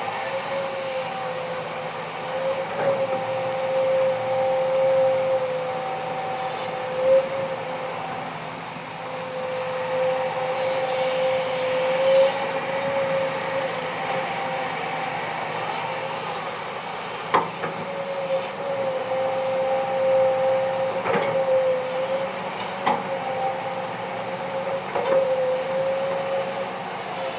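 Kobelco SK200-8 hydraulic excavator running under load, a steady high whine that wavers slightly in pitch. Several sharp knocks come in the second half.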